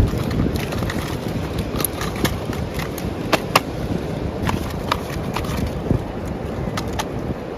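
Plastic toy vehicles being handled and rolled, giving a steady low rumble with scattered sharp clicks, two of them close together near the middle.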